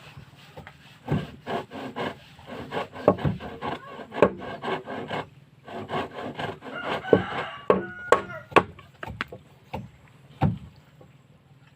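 Wooden boards knocking and scraping as they are handled and worked, with irregular sharp knocks spread through the stretch.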